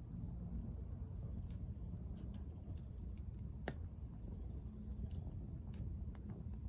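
Wood fire crackling in a fire pit stand: scattered small irregular pops, one sharper pop about halfway through, over a low steady rumble.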